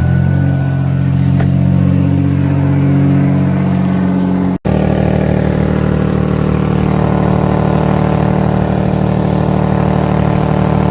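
1999 Ford Taurus engine running with a leaking exhaust, a loud steady drone. After a split-second break about four and a half seconds in, it idles on with an even pulsing.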